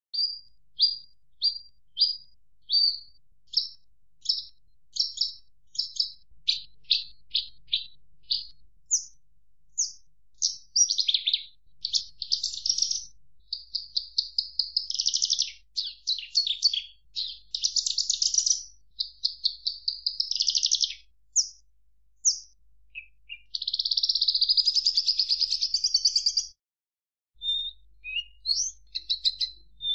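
Javan bush lark (branjangan) singing: a run of short, high notes about two a second, then fast trills and buzzy, rattling phrases, broken by a moment of complete silence near the end.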